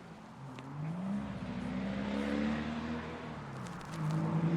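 A motor vehicle's engine passing nearby: its pitch rises about a second in and then holds steady, and a second, louder engine tone builds near the end, with tyre hiss.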